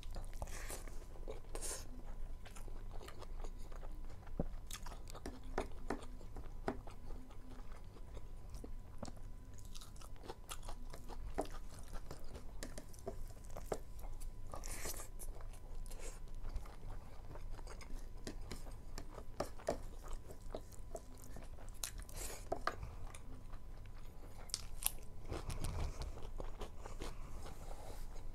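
A person chewing and eating mouthfuls of rice and meat taken by hand, with irregular wet clicks and smacks throughout, over a faint steady low hum.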